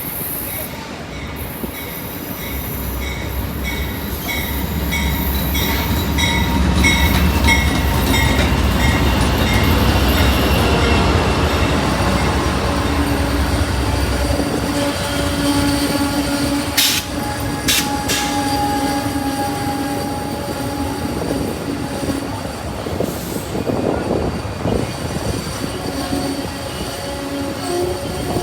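Tri-Rail commuter train passing, with a bell dinging about two to three times a second over the first ten seconds and the heavy rumble of the diesel locomotive swelling and fading. Afterwards the cars roll by with long steady squeals from the wheels and a couple of sharp clacks.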